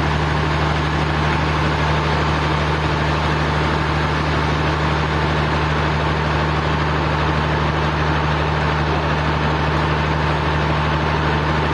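Sawmill machinery running steadily: a constant low engine-like hum with an even rushing noise above it. It does not change in pitch or level, so no cut starts or ends.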